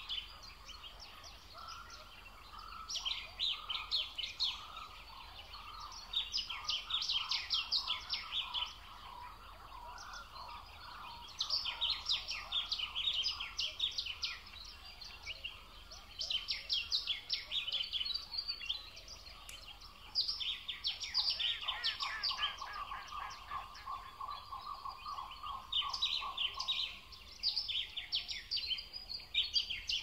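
A songbird singing in fast bursts of rapid high notes, each burst lasting two to three seconds and repeated every few seconds. A lower, steady chattering trill runs beneath for much of the time.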